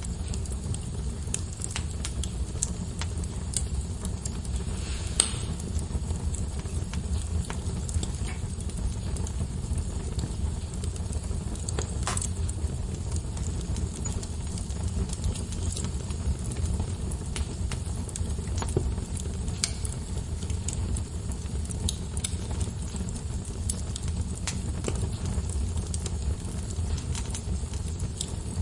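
Wood logs burning in a fireplace, crackling with many small irregular clicks over a steady low rumble of the fire. A few louder pops stand out, about 5, 12 and 19 seconds in.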